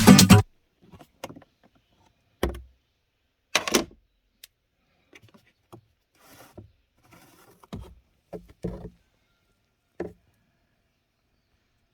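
Scattered plastic clicks and knocks, about six of them, with soft rustling in between, from handling the glove box and cabin air filter housing of a Hyundai Palisade during a filter change.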